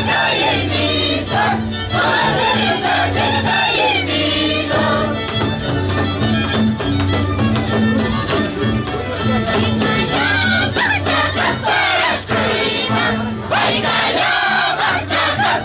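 Festival music: a group of voices singing high, wavering melodic lines over steady low instrumental tones.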